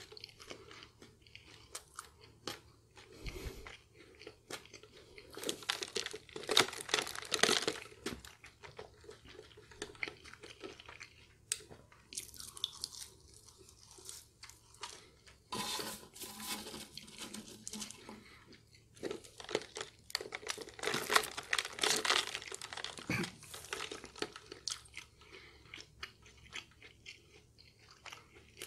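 A person chewing mouthfuls of McDonald's french fries, in several bouts with quieter gaps between.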